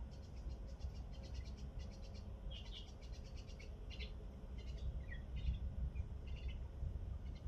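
Small birds chirping and trilling in short, rapid high notes, over a steady low rumble.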